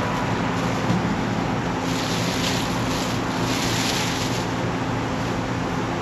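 Cab noise inside a 1966 Ford F-250: the engine drones steadily under a constant hiss of road and wind noise. The hiss swells for a couple of seconds midway.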